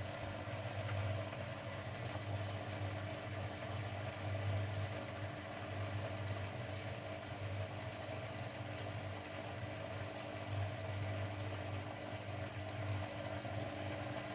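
Grundig washing machine running its Refresh programme: a steady mechanical hum with a low throb that swells and fades every few seconds.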